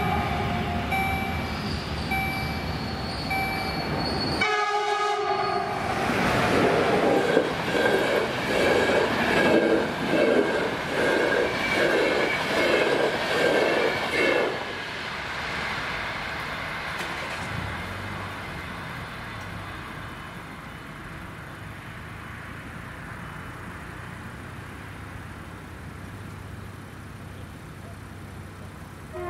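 A level-crossing warning signal sounds, its tone pulsing about once a second; then, about four and a half seconds in, a train horn gives a short blast and a passenger train passes over the crossing with a rhythmic clatter of its coaches, loudest until about fourteen seconds in, then fading away as it leaves.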